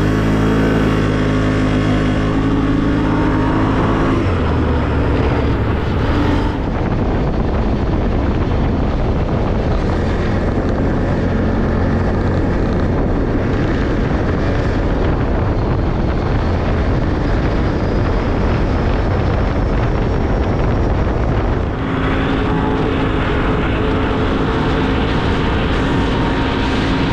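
Off-road vehicle's engine running as it drives along a dirt road, with the rumble of tyres on dirt and gravel. A steady engine note stands out for the first few seconds, gives way to rougher road rumble, and returns about 22 seconds in.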